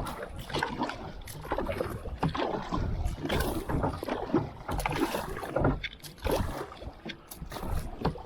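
Kayak paddling: paddle blades dipping into the creek water with irregular splashes and drips, over a low rumble on the microphone.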